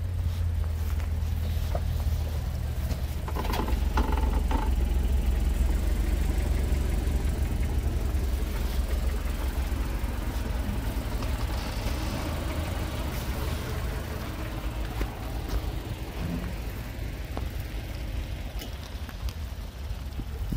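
2003 Mitsubishi Pajero iO's 1.8-litre petrol engine idling steadily, a low, even hum.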